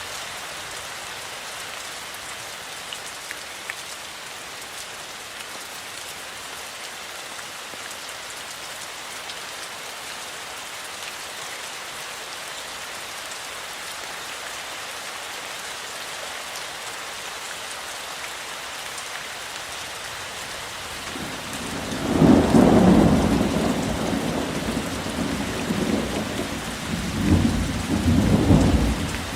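Steady rain falling. About three quarters of the way through, a low thunder rumble comes in and swells twice before dying away near the end.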